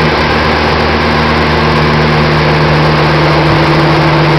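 Volkswagen Voyage engine running loud on a dynamometer, holding one steady pitch with no rise or fall in revs.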